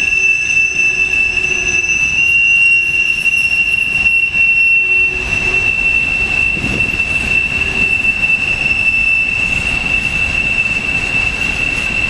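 Freight train rolling past with a steady, high-pitched steel wheel squeal held on one pitch; about five seconds in, a heavier rolling rumble of wheels on rail joins it.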